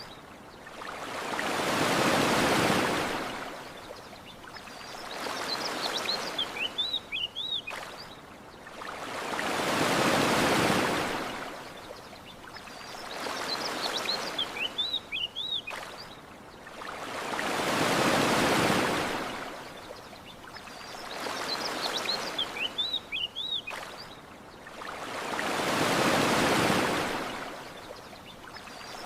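Gentle ocean waves washing onto a beach, each swell rising and falling, a larger one about every eight seconds. Small birds chirp in short phrases between the swells, the same phrase coming back each cycle.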